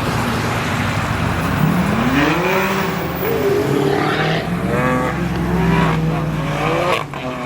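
A sports car accelerating hard, its engine note climbing through the gears with a short drop at each upshift, over loud road and tyre noise.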